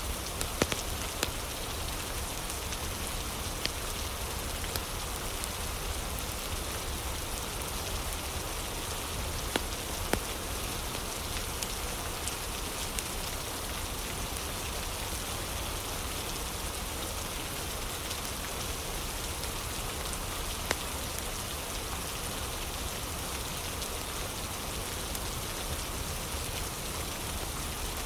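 Steady rain falling, with a few sharp crackling pops from a fire scattered through, the loudest about a second in, around ten seconds in and around twenty seconds in.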